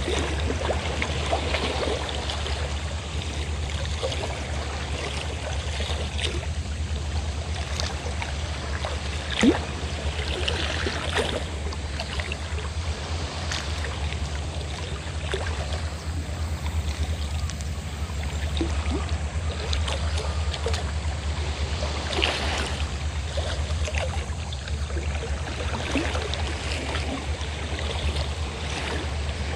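Fishing boat's engine running with a steady low drone, under waves splashing and lapping. One sharper, louder splash comes about nine seconds in.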